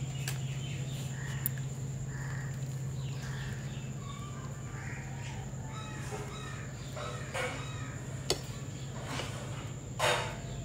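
Birds calling outdoors, with short scattered calls and a couple of louder harsh, crow-like calls about seven and ten seconds in, over a steady low hum; a single sharp click about eight seconds in.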